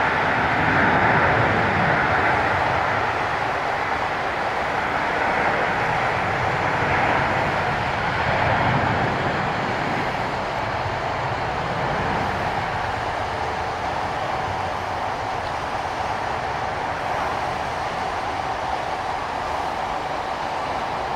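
Airbus A330 jet engines: a loud, even rumble and roar with no clear tones, slowly fading over the stretch.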